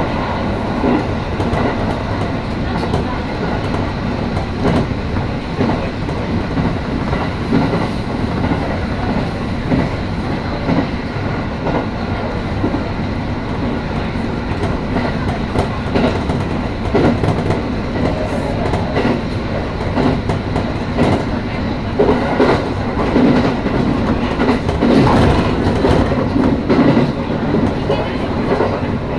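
Electric train running along the line, heard from inside the car: a steady rumble of wheels and running gear, with irregular clicks and clacks as the wheels pass over rail joints. It grows a little louder about two-thirds of the way through.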